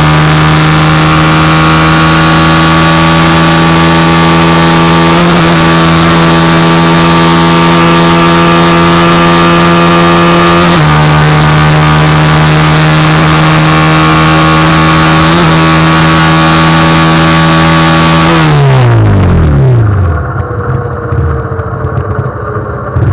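A 150 cc single-cylinder four-stroke motorcycle engine held at high, steady revs for about eighteen seconds, with slight shifts in pitch every five seconds or so. Then the revs fall away as the throttle closes, and the engine picks up again right at the end.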